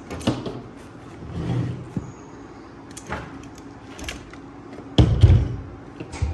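Tools being pulled out of a tool bag: scattered clicks, knocks and rustling, with one heavy thump about five seconds in.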